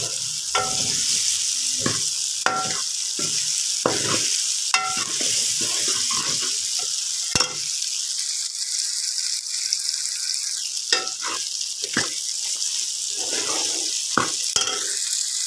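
Potato chunks frying in oil and spice masala, sizzling steadily with a high hiss. A metal spoon scrapes and knocks against the metal pan again and again as they are stirred, with fewer knocks in the middle.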